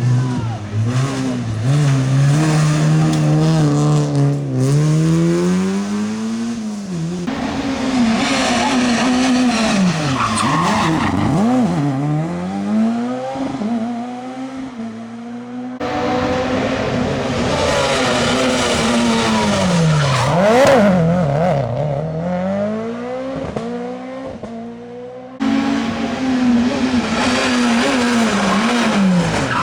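Rally cars passing one after another, engines revving hard: each engine note drops as the car brakes for a corner, then climbs as it accelerates away. Abrupt cuts between separate passes.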